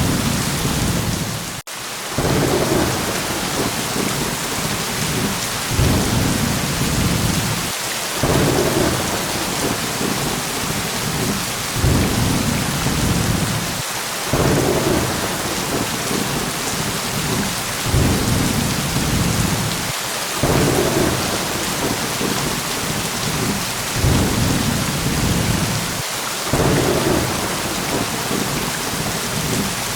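Steady heavy rain hissing, with low thunder rumbles swelling and fading again every few seconds. The sound drops out for a split second near the start.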